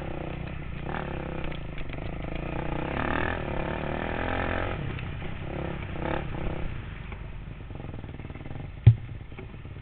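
Dirt bike engine running, its revs rising and falling, louder a few seconds in and dying down over the last few seconds. A single sharp knock near the end.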